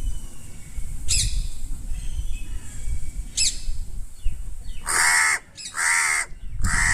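Crow cawing three times in quick succession, loud harsh caws starting about five seconds in, as it asks for food. Before that, two short high chirps from a smaller bird.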